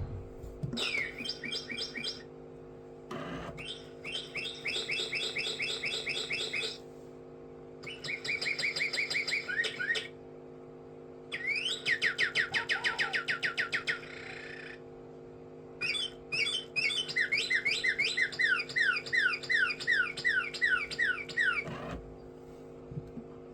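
Mechanical singing bird toy whistling in five phrases of rapid, evenly repeated chirps and quick rising sweeps, each phrase a few seconds long with short gaps between. A steady low hum runs underneath the whole time.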